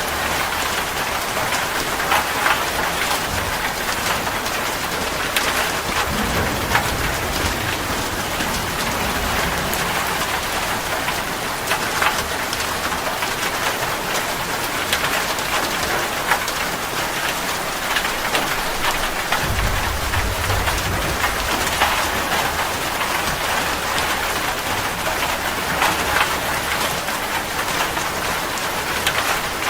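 Steady rain falling, with scattered louder drops striking close by. Distant thunder rumbles low twice, faintly about six seconds in and more strongly about twenty seconds in.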